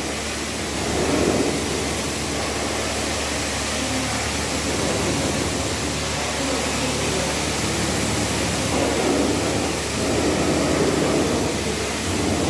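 Steady rushing noise of a car wash bay.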